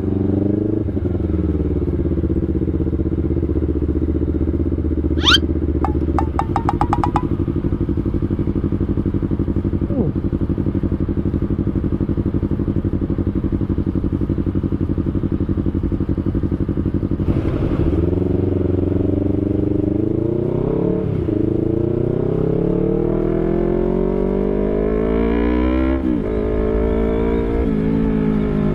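Honda CBR250RR motorcycle engine idling steadily in stopped traffic, then pulling away and accelerating through the gears, its pitch rising, dropping at each shift and rising again several times. A short high chirp and a brief buzzing tone about five seconds in.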